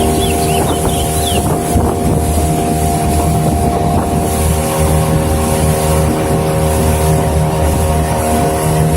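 A steady engine drone with a constant hum and low rumble. A few short high chirps come in the first second or so.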